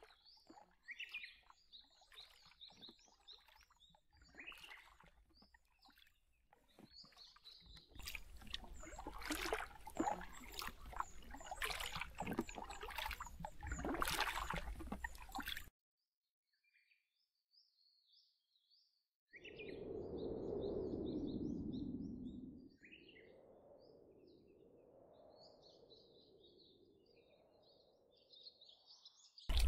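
Small birds chirping along the river, with a louder stretch of splashing and knocking in the middle and a rushing noise that swells and fades near the two-thirds mark.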